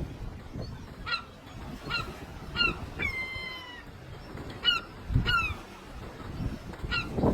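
Seagull calling repeatedly: a string of short, downward-falling calls about a second apart, with one longer, drawn-out call about three seconds in.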